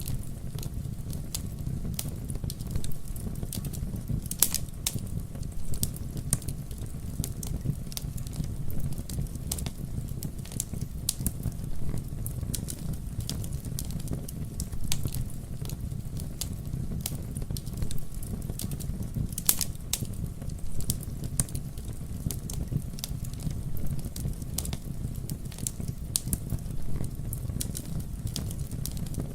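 Campfire burning with a steady low rumble of flames and irregular sharp crackles and pops, a few louder pops among them.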